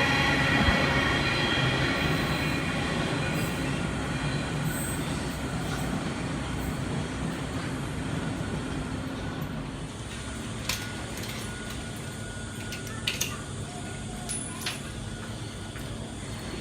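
Train running away from the listener, its rumble and wheel noise fading steadily over about ten seconds and then staying low, with a few faint clicks near the end.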